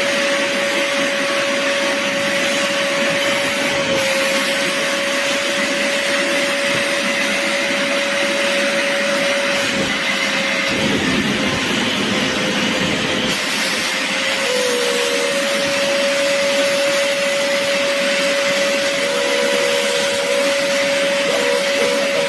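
BISSELL Little Green portable carpet and upholstery cleaner running, its motor whine and suction noise steady. For about three seconds near the middle the suction sound grows fuller.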